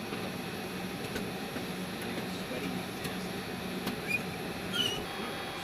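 Steady hum of an aircraft's on-board systems before engine start, low and constant under a noise haze, with a few faint clicks.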